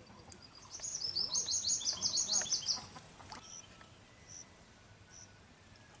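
A songbird singing: a fast trill of high chirping notes starting about a second in and lasting about two seconds, followed by a few single short chirps.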